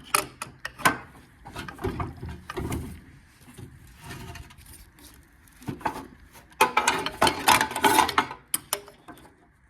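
VW air-cooled 1300 engine being turned over by hand with an adjustable spanner to check that it still spins after years in storage: metal clicks and knocks of the spanner and the turning engine, with a denser run of clattering about two-thirds of the way in.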